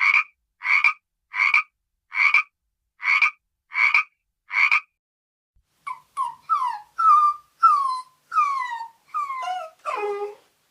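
A frog croaking in a steady series, about one croak every three-quarters of a second, then, about six seconds in, a puppy whimpering in a quick run of short whines that fall in pitch.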